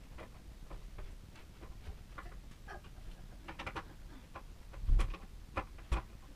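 Irregular light clicks and taps, with a louder knock about five seconds in and another sharp one near six seconds.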